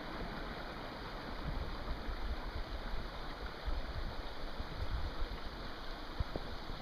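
Steady rush of a nearby creek, an even hiss of flowing water, with uneven low rumbling over it.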